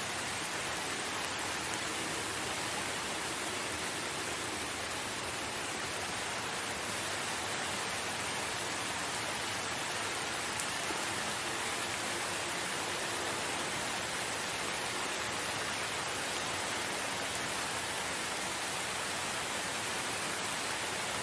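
Steady rain falling in a forest, an even hiss of drops with no breaks.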